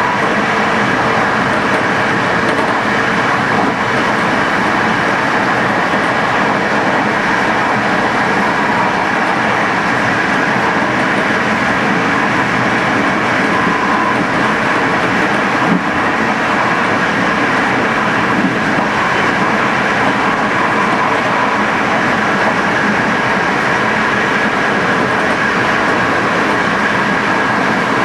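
Passenger train running steadily along the line, with continuous wheel-on-rail running noise and a faint steady whine. There is a single click about two-thirds of the way through.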